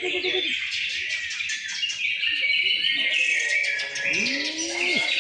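A dense chorus of caged songbirds at a greater green leafbird (cucak ijo) song contest, many birds singing at once in overlapping high warbles and whistles. A fast rapid-fire trill runs from about one to three seconds in, and a lower swooping call comes near the end.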